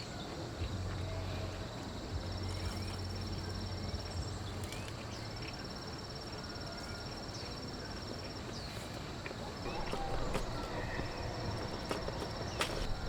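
An insect trilling in two long runs of rapid high pulses, one starting about two seconds in and another from about five to eight seconds in. Underneath is a steady hiss, with scattered clicks and knocks.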